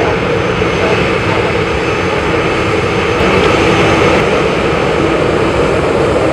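Boeing 737-800's CFM56-7B turbofan engines at takeoff power: a loud, steady jet roar that swells slightly a few seconds in.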